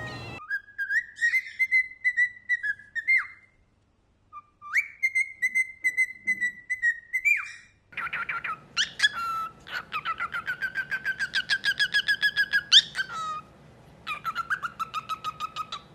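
Pet birds whistling: two long, wavering whistles with a short gap between them. Then comes a fast string of repeated chirps, about six a second, and another shorter string near the end.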